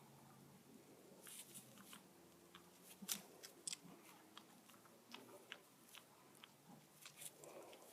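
Faint, irregular crunching and clicking of a goat chewing and biting at its food.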